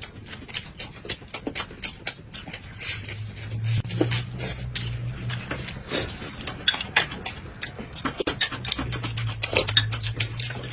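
Close-miked eating sounds: two people chewing and lip-smacking on filled flatbread, a dense, irregular run of wet, crisp clicks, with a low hum coming and going underneath.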